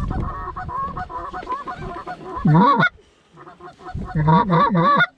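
A flock of Canada geese honking as it comes in: many short overlapping honks, with louder, close honks in two spells, about two and a half seconds in and again near the end.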